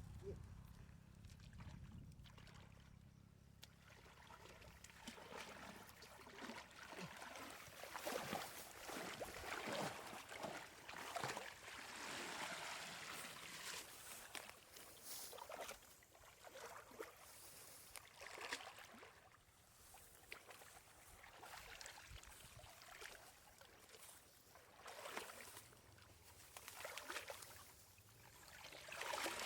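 Water sloshing and splashing in irregular bursts, heaviest about a third of the way in and again near the end.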